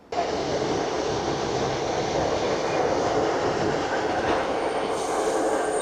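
Northern Class 150 diesel multiple unit moving on the rails, a steady rumble and hiss of train running noise. A thin high squeal comes in near the end.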